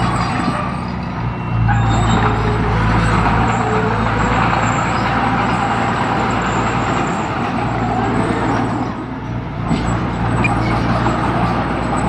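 Heavy diesel construction machine running: a steady low engine hum under broad mechanical noise, easing briefly about a second in and again near nine seconds.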